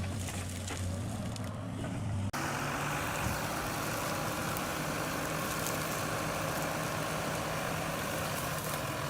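Engine of a heavy stump-removal machine running steadily. About two seconds in, the sound cuts abruptly to a different, noisier stretch of machine running.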